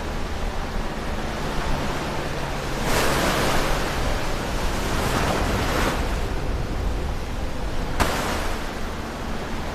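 Ocean waves breaking close to the shore, over a steady hiss of surf. One wave crashes about three seconds in and washes on for about three seconds. Another breaks suddenly near the end.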